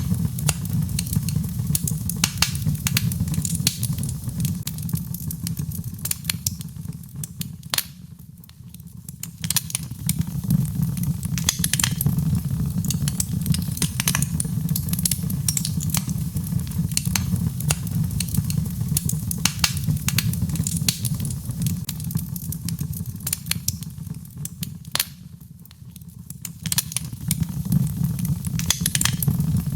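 Birchwood fire crackling in a fireplace: frequent sharp pops and snaps over a steady low rumble of the flames, with the crackling briefly quieting twice.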